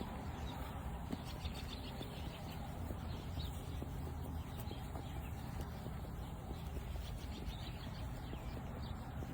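Steady outdoor background rumble with faint bird chirps.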